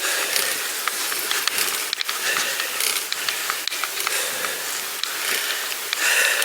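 Bicycle freewheel ratchet clicking rapidly as the bike coasts, over a steady hiss.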